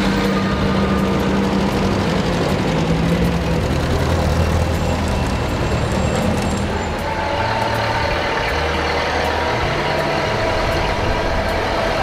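Engines of vintage cars running as they drive slowly past one after another, their low notes shifting every second or two.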